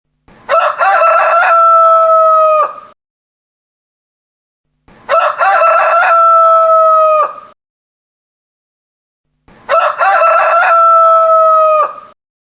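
Rooster crowing three times, about four and a half seconds apart, each crow about two and a half seconds long with a long held final note that cuts off sharply. The three crows look identical, the same crow repeated.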